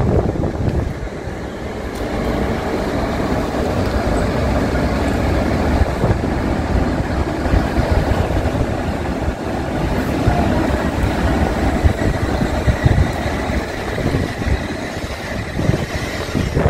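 E6 series Komachi shinkansen pulling out of the station, a steady rumbling running noise as it moves away down the platform, with a faint high whine in the second half.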